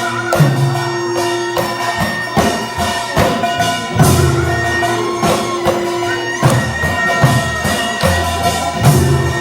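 Korean traditional accompaniment for the deotbaegi dance: a reedy wind instrument holding long notes over percussion striking a steady, lilting beat.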